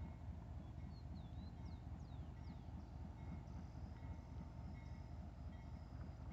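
Low steady rumble of a diesel train in the rail yard, with a bird giving a few quick sweeping chirps about a second in.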